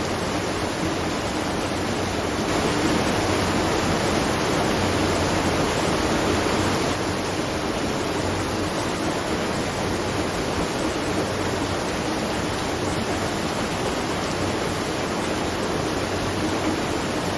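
Steady rushing of falling water at a watermill, an even wash with no distinct splashes. It is a little louder from about two and a half to seven seconds in.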